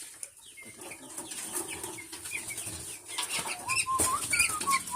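Chickens clucking and flapping their wings, with a longer call near the end that slides down in pitch.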